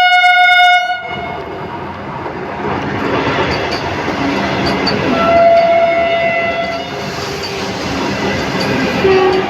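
Vande Bharat Express train sounding its horn in a single-note blast that stops about a second in, then running past with steady rushing wheel and rail noise. A second, softer horn blast sounds from about five to seven seconds.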